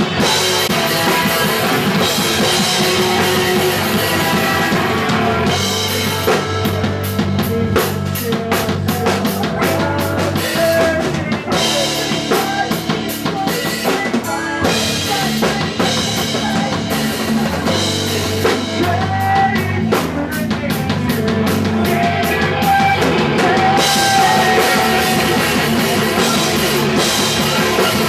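Punk rock band playing live, with the drum kit prominent. From about six seconds in, the dense wash thins and separate drum hits stand out over a steady bass line. The full band comes back in near the end.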